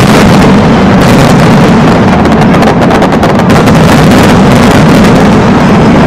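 Fireworks going off in a dense barrage of rapid bangs and crackles, so loud that the microphone is overloaded into a constant distorted noise.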